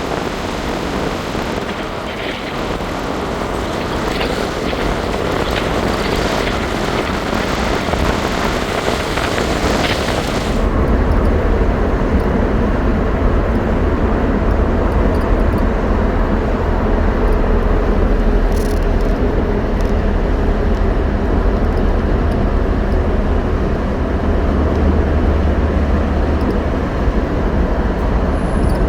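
A car driving, with steady road and engine noise. A hissing wind noise drops away suddenly about ten seconds in, leaving a deep, steady low rumble.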